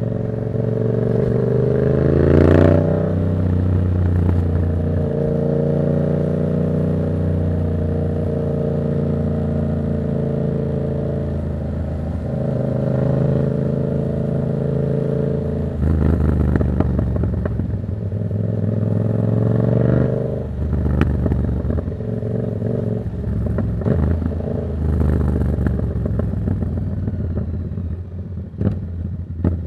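Yamaha MT-07 parallel-twin engine with a Black Widow exhaust, its dB killer removed, being ridden. The revs climb about two seconds in, then hold at steady cruising revs. In the second half the throttle changes several times and the exhaust gives short sharp cracks.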